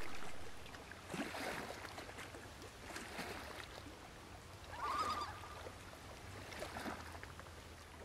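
Quiet open-air ambience on a lake with soft rustles of clothing as a jacket is handled. About five seconds in comes one short, wavering honk-like bird call.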